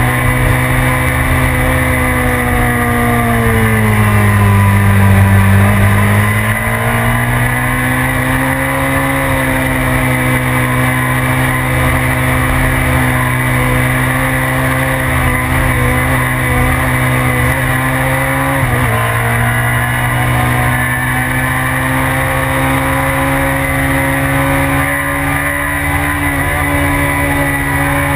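BMW sport bike's engine, heard from a camera mounted on the bike, running hard around a race track. The revs fall and climb back about four seconds in, and drop suddenly and recover near two-thirds of the way through, as for a gear change.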